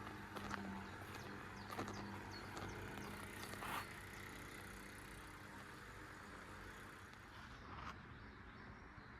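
Faint outdoor background: a steady low hum, like distant traffic, with a few short bird chirps in the first four seconds.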